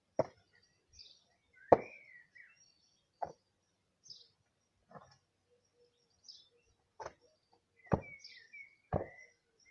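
About seven sharp knocks and taps at uneven intervals, the loudest a little under two seconds in and near the end, with birds chirping faintly throughout.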